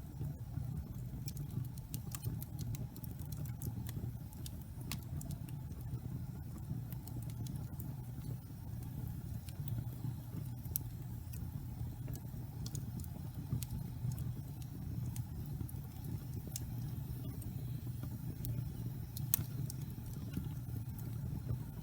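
Wood logs burning in a fireplace: a steady low rumble of the flames with scattered sharp crackles and pops, one louder pop a few seconds before the end.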